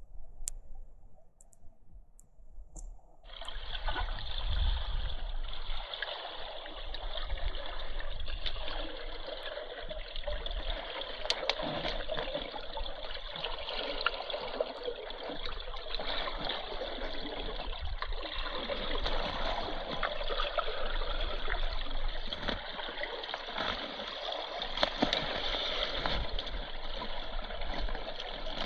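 Rushing river water: a steady wash of flowing water that starts abruptly about three seconds in, after a few faint clicks.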